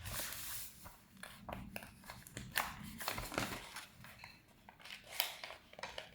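A sheet of printer paper being handled and worked into folds: intermittent crisp crinkles, rustles and small clicks as a flap is pushed in and creased.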